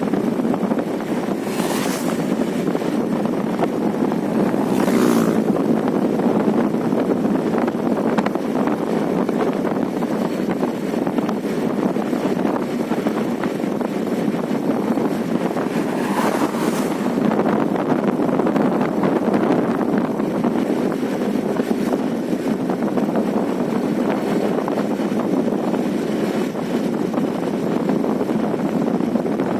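Steady wind and road noise from travelling along a highway, rushing across the microphone, with three brief louder whooshes.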